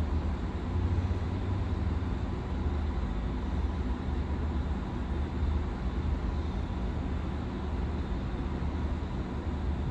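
Low, steady engine rumble of a V/Line VLocity diesel railcar approaching slowly.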